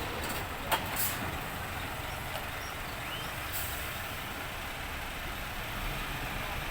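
A truck running steadily, with two sharp knocks about a second in.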